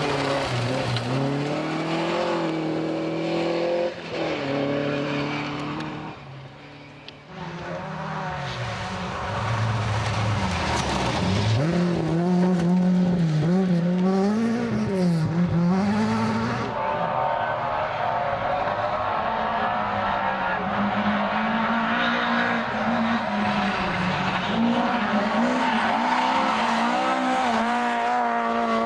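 Rally car engines revving hard, the pitch climbing and dropping repeatedly through gear changes, with tyre squeal. The sound goes quieter briefly about six seconds in, then comes back louder.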